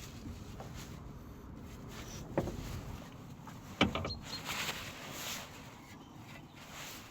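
Two sharp knocks, about two and a half and four seconds in, over a low rumble, followed by a brief rustling noise.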